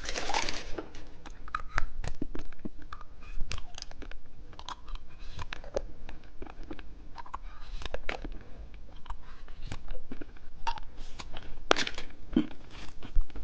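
Close-up crackling, tearing and crunching sounds from a watermelon bubble gum candy and its wrapper, a scatter of short sharp clicks with small gaps between them.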